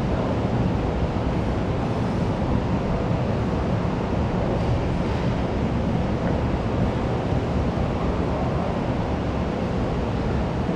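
Steady, dense hubbub of a busy school canteen, many voices blended into an even rumble with no words standing out.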